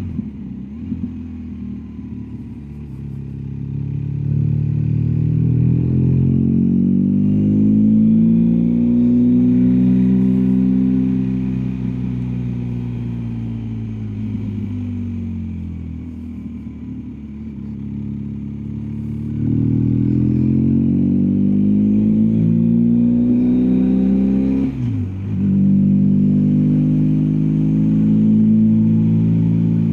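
BMW R1250GSA's boxer twin engine running under load, its pitch rising as the revs build, easing off, then rising again. About 25 seconds in the revs drop sharply for a moment and climb back, like a gear change.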